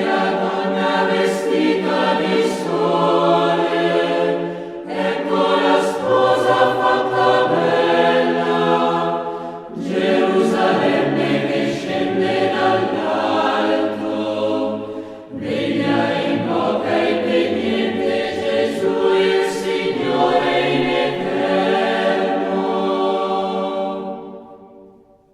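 Choral music: a choir singing slow, sustained chords in long phrases, fading out near the end.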